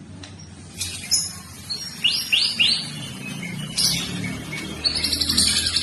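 White-rumped shama (murai batu) singing: sharp high whistled notes, with three quick notes that rise and fall in pitch about two seconds in, then a fast trill of rapidly repeated notes near the end.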